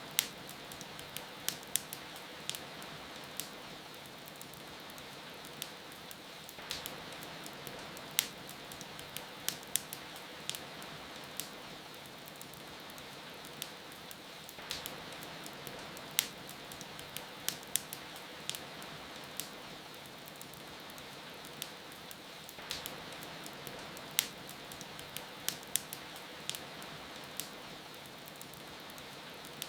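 Wood fire crackling with sharp, irregular pops over a steady hiss of rain.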